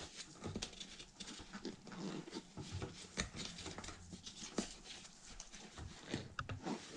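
Faint handling sounds of a soft rubber RC paddle tire and its foam insert being squeezed and pushed off the rim by hand: scattered scuffs and light knocks, with a few short rubber squeaks near the end.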